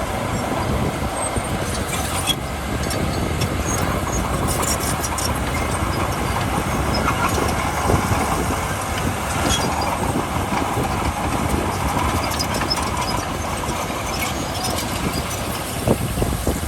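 Heavy diesel earthmoving machinery running steadily under load, with scattered light metallic clinks.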